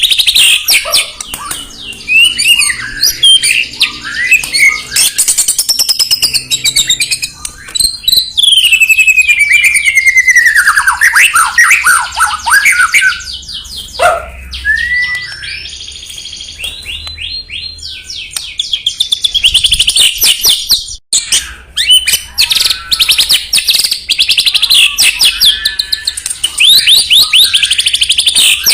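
White-rumped shama song, loud and continuous: varied whistles, sweeping falling glides and rapid trilled runs, with one brief break about two-thirds through. It is the kind of song played to a caged shama to provoke it into singing.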